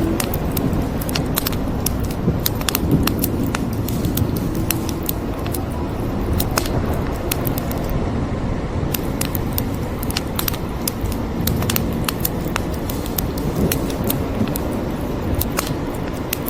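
Wood fire crackling, with frequent sharp pops and snaps all through, over a steady low rumble and hiss of rain.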